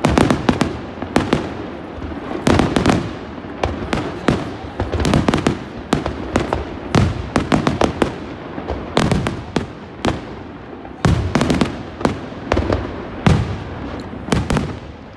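Aerial fireworks bursting in quick succession: sharp bangs and pops come several a second, bunched in loud clusters about every second.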